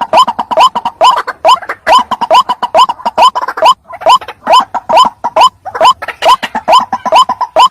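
White-breasted waterhen (ruak-ruak) calling: a loud, unbroken series of short croaking notes, each sliding upward in pitch, at about three a second.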